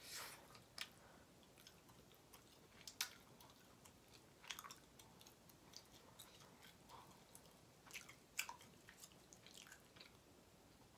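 A person chewing a mouthful of food close to the microphone: faint, with soft, scattered mouth clicks and smacks.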